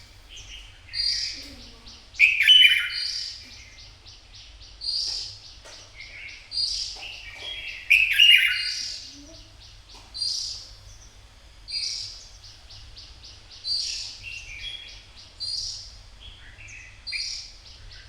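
Red-whiskered bulbul singing short, bright whistled phrases, one about every second and a half, with the loudest phrases about two and eight seconds in. A faint steady low hum runs underneath.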